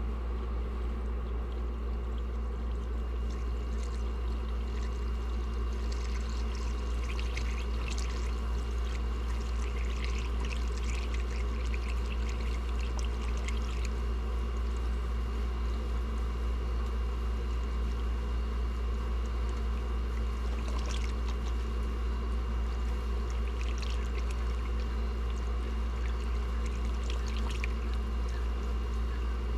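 Engine coolant being poured into the cooling system, a steady pour and trickle of liquid, over a constant low hum.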